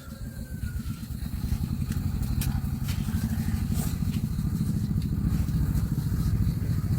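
A small engine running steadily with a low, fast putter that grows louder about a second in.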